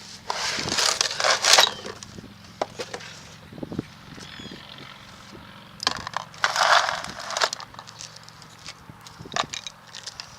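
Hand tools working on a truck drive shaft's U-joint: two rasping scrapes of about a second and a half each, one near the start and one about six seconds in, with scattered metal clinks and knocks between them.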